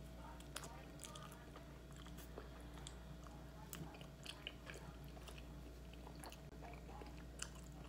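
Close-up mouth sounds of someone eating fried chicken: quiet chewing with scattered small crunchy clicks and smacks as she bites and chews. A faint steady hum runs underneath.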